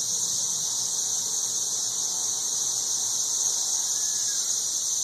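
Chorus of 13-year periodical cicadas calling en masse from the trees: an unbroken, high-pitched droning hiss at a steady level, ridiculously loud.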